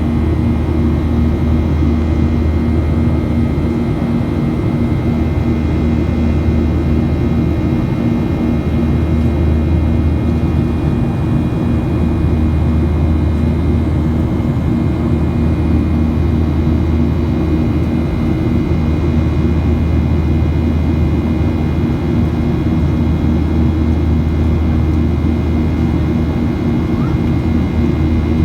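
Jet airliner's engines running steadily during the climb after takeoff, heard from inside the passenger cabin: a constant low drone with faint, steady high whining tones above it.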